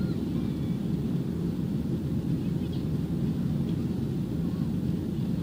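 Boeing 737 jet engines running at takeoff or climb power: a steady, loud low rumble.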